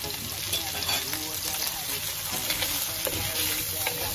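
Chicken breast pieces frying in a stainless steel pan: a steady sizzle with scattered crackles, as a wooden spatula stirs and scrapes them around the pan.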